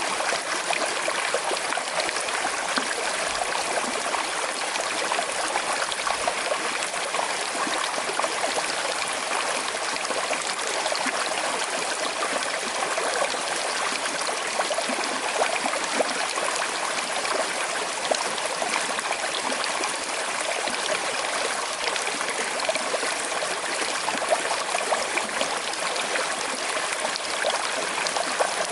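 Small, slowly flowing river, steady burbling and trickling of water over stones, with many small splashes.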